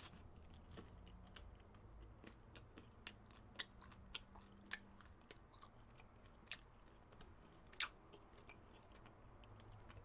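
Faint chewing of a frozen pecan Snickers bar, with scattered sharp little crunches and mouth clicks at irregular intervals.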